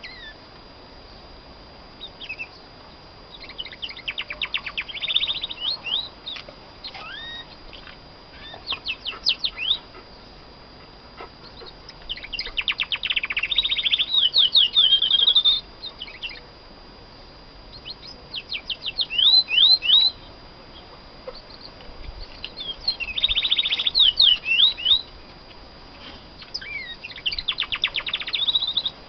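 Female domestic canary singing in six phrases of fast trills and rising and falling whistles, with short pauses between them. It is a hen's song, still being practised.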